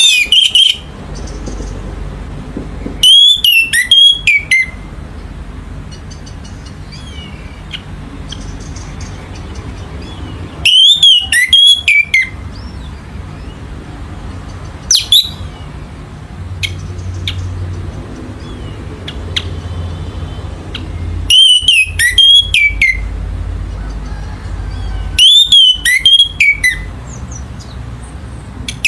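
Orange-headed thrush singing: loud bursts of clear whistled notes with quick falling slurs, each burst about a second long and repeated every few seconds. A steady low hum runs underneath.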